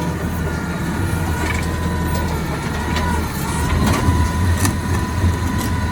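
Recycling truck running with a steady engine rumble and a steady whine as its lifting arm works a full recycling bin, with several sharp knocks about three to five seconds in.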